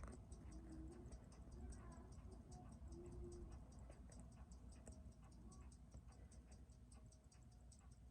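Faint, even ticking of a Seiko 6139 automatic chronograph movement, about six ticks a second, over a low hum.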